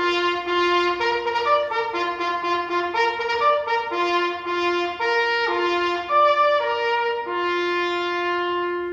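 Trumpet playing a martial tune of short and longer notes, ending on a long held note near the end.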